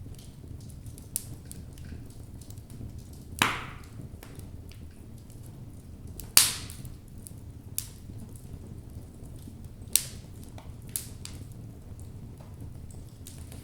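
Logs burning in a fireplace: a steady low rumble of the fire with scattered crackles, and two loud pops of the wood about a third and halfway through.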